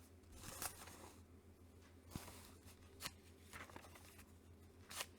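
Faint rustles and light taps of a comic book being handled, a few seconds apart, over a low steady hum.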